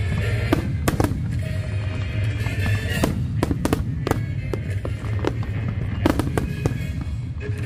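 Fireworks going off: many sharp bangs at irregular intervals, some in quick clusters, over a steady low rumble, with music playing underneath.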